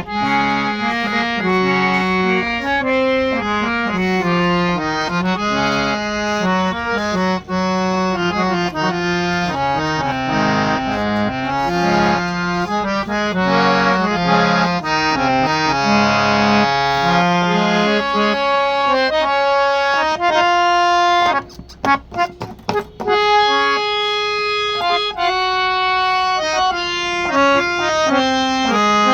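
Folding harmonium's reeds playing a melody over held lower chord notes. The low notes drop out about two-thirds of the way through, and the sound breaks up into short choppy gaps for about a second and a half before the melody carries on.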